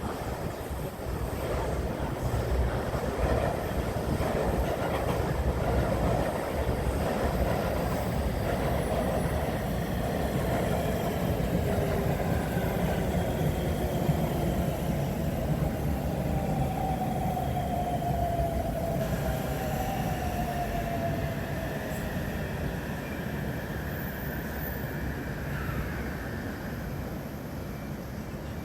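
Electric train running past on the rails, a steady rumble of wheels and running gear, with a motor whine that slowly falls in pitch in the second half.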